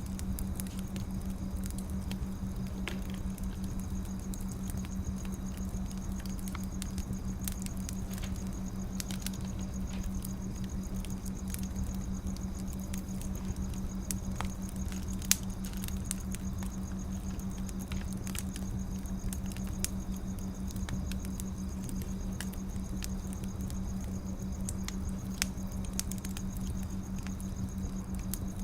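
Wood fire crackling: a dense scatter of small irregular pops and ticks, with a sharper snap about halfway through and another near the end, over a steady low hum.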